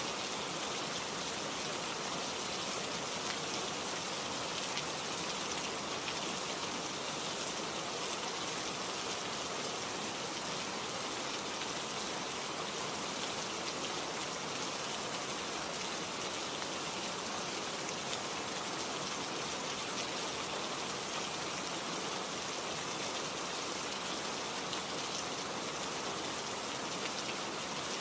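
Steady rain falling on a surface, a dense even hiss of many drops with no let-up.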